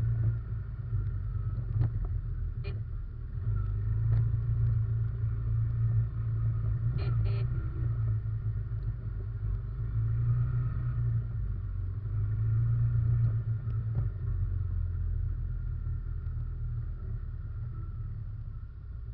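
Russian Mechanics RM 500 ATV engine running under way, heard from a camera mounted on the machine: a steady low drone that swells and eases with the throttle, with a few short sharp knocks.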